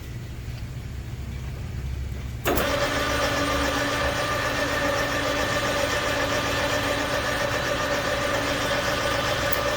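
Metal lathe boring out a belt pulley with a boring bar: a low machine hum, then about two and a half seconds in the cut starts suddenly and a steady cutting noise with held ringing tones carries on, throwing off hot chips.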